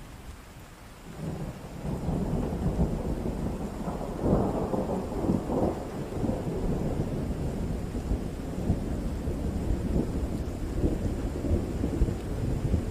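Thunder rumbling over steady rain. The deep roll builds from about a second in, is loudest around four to six seconds in, then keeps rolling.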